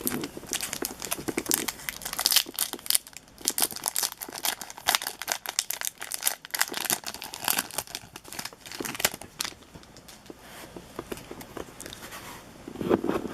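Baseball card pack wrappers being torn open and crinkled by hand, with irregular crackling and tearing that thins out after about ten seconds.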